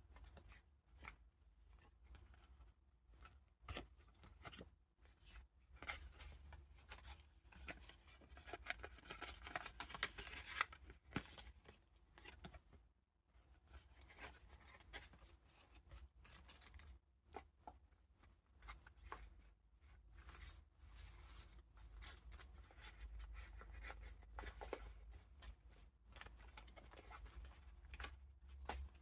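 Paper pages of a handmade junk journal being turned and handled: irregular rustling and crinkling of vintage paper and ephemera with small taps, busiest in the first half, over a faint low hum.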